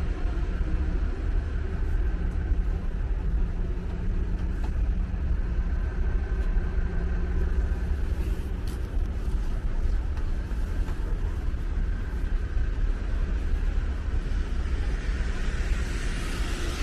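Road traffic: a steady low engine rumble with a faint hum. Near the end a rising hiss sets in as a vehicle draws near.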